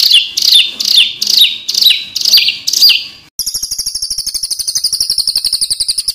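Edited songbird recordings used as masteran tutor song. First a sharp, high, downward-sweeping note repeats about twice a second. After an abrupt cut about three seconds in, a different bird gives a fast, high, buzzy trill.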